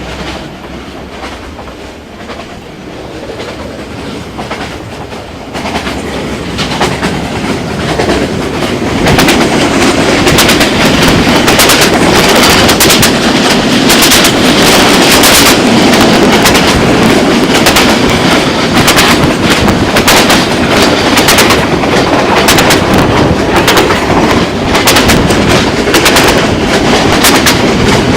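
Passenger train running on the rails, its wheels clattering over the rail joints in a fast, dense clickety-clack that grows louder about a third of the way in and then stays loud.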